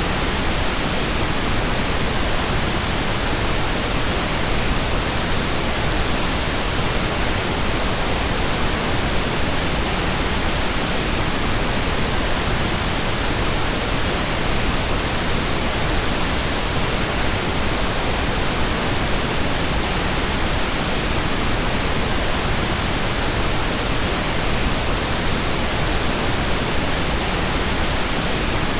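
Steady, unchanging pink noise: an even hiss across the whole range, weighted toward the low end.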